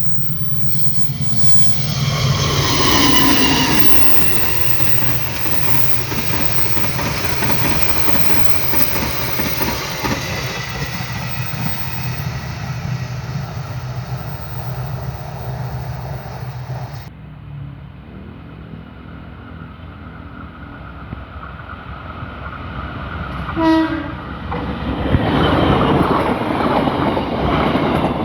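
A train horn sounds with falling pitch as the train passes, followed by the steady rumble and rail clatter of the passing wagons. After a cut, a short horn blast is heard and another train's noise builds as it approaches.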